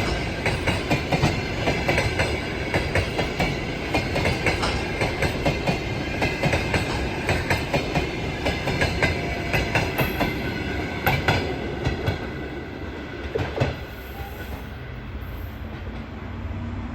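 Passenger train coaches rolling past, their wheels clicking rhythmically over the rail joints. The clicking stops about fourteen seconds in, leaving a lower, steadier rumble.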